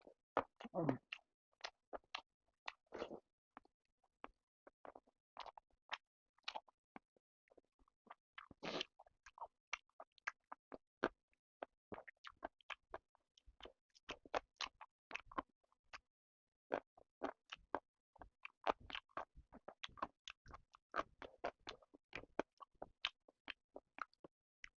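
Close-miked eating sounds: chewing and biting chicken with rice, heard as many short, irregular wet mouth clicks with brief gaps between them.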